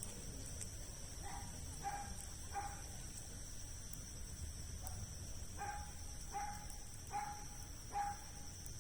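A dog barking faintly, three barks and then after a pause four more, about 0.7 s apart, over a steady high chirring of insects.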